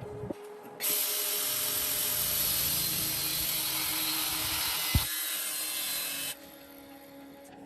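A power tool runs for about five and a half seconds, a loud hissing whir that starts and stops abruptly, with a single sharp knock near the end.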